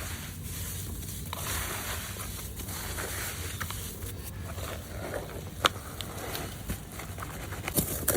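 Hands crumbling and rubbing gritty red dirt, dry clumps crackling and grinding. There are scattered sharp snaps, the clearest about five and a half seconds in and another near the end.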